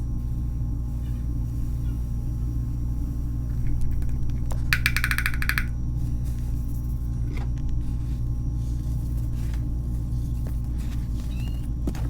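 A steady low hum with a few faint, scattered crunches and clicks, typical of a reformed gym chalk block being crushed. About five seconds in comes a brief burst of fast, pulsing high-pitched chirps.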